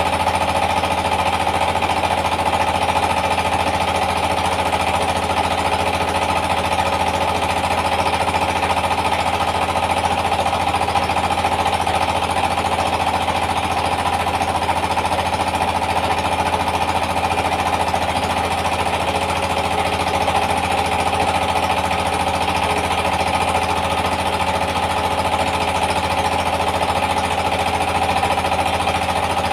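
Yanmar TS 230 single-cylinder diesel engine running steadily at constant speed, driving a rice milling machine. The engine's rapid pounding mixes with the mill's whirring and the hiss of grain.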